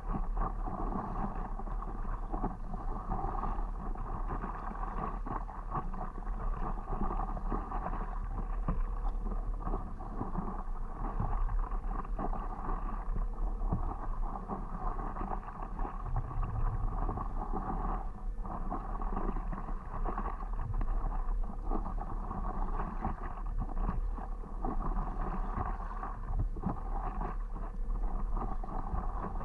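Water splashing and paddle strokes around a stand-up paddleboard, with a steady low wind rumble on the microphone.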